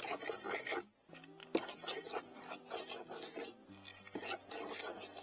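Metal detector target tones, steady hums that change pitch twice, under repeated scraping and rasping in gravelly dirt as the target is dug and checked. The signal is from buried screen wire, not gold.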